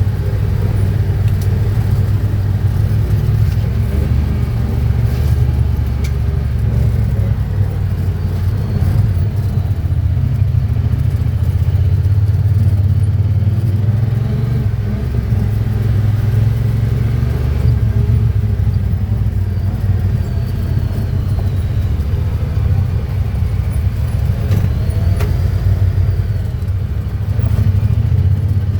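Honda Pioneer 1000-5 side-by-side's engine running steadily under way on an off-road trail, a low drone with occasional light knocks.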